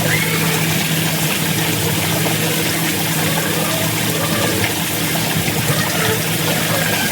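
Steady rushing of running water, loud and even throughout, over a faint low hum.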